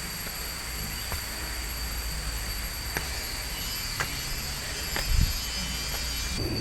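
Steady low outdoor rumble with a thin high-pitched whine held throughout, and light footsteps ticking about once a second.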